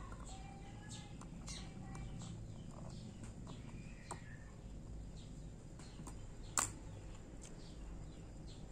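Birds chirping faintly in the background, many short chirps and glides, with one sharp click about six and a half seconds in.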